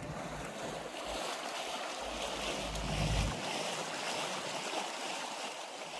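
Wind and water noise on a boat out on the water, with wind buffeting the microphone as a low rumble that stops about halfway through.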